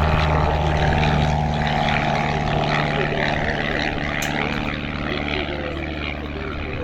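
Pitts S-1E Special's 180 hp Lycoming piston engine and propeller running steadily in flight, slowly fading as the aircraft draws away.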